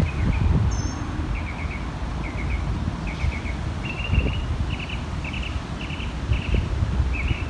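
A small bird chirping over and over in short rapid bursts, a new burst every half second to a second, with one brief high whistle about a second in. A steady low rumble of outdoor noise runs underneath.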